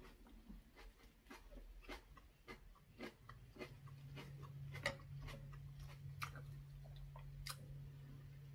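Close-miked mouth sounds of eating braised saury, aged kimchi and rice: soft wet clicks and smacks of chewing, a few each second. A low steady hum joins about three seconds in.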